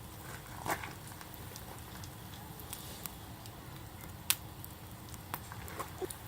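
Wood campfire crackling: irregular sharp pops and snaps, the loudest about four seconds in, over a steady low background.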